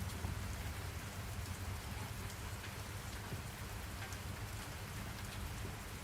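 Steady rain falling on a surface, an even hiss with scattered drops.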